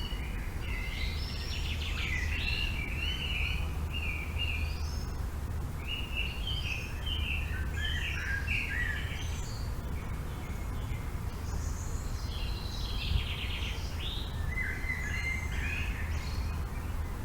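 Songbirds singing in short warbled phrases, in three bouts, over a steady low rumble of wind.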